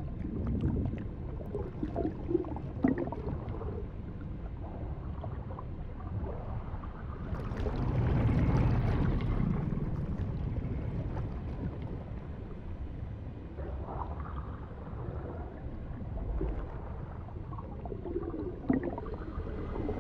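Low, rumbling floodwater and storm ambience from a film soundtrack, with faint gurgling, swelling to its loudest about eight seconds in.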